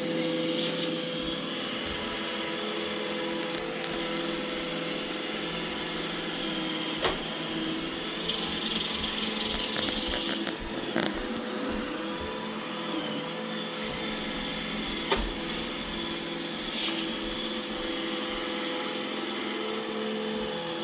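iRobot Roomba E6 robot vacuum running with a steady motor and brush whine, with three sharp knocks spread through.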